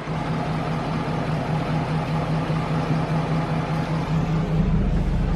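A vehicle's engine running steadily with an even low hum.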